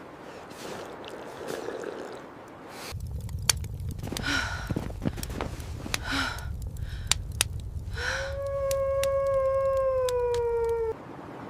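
Wolf howling: a long, steady howl near the end that sags slightly in pitch, after a few short cries, over a low rumble of blizzard wind with scattered sharp clicks. It all cuts off abruptly just before the end.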